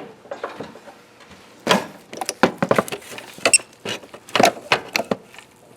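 Tools being handled: a quick, irregular run of sharp clicks and clatters, starting a little under two seconds in and stopping about a second before the end.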